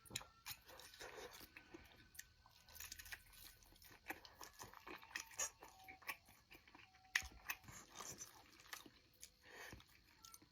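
A person eating close to the microphone: bites and chewing, heard as a scatter of short irregular wet clicks and smacks.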